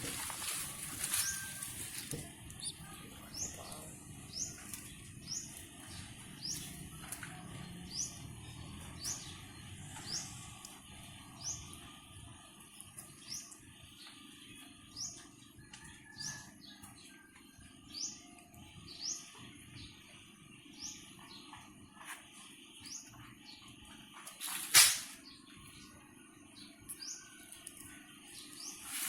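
A small bird chirping over and over, short high rising chirps about once a second. One sharp clap or knock cuts in near the end.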